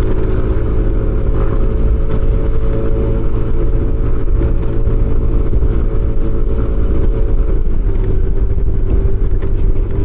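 Motorcycle engine running at a steady cruising speed under a heavy low rumble of wind and road. The engine note drops slightly about three quarters of the way through.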